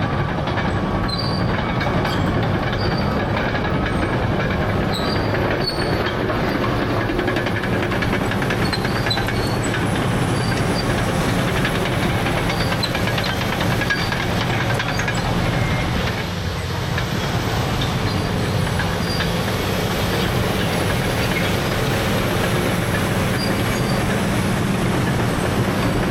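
Caterpillar D6R crawler dozer with a C9 diesel working under load: a steady engine drone with the clatter and short squeaks of its steel tracks.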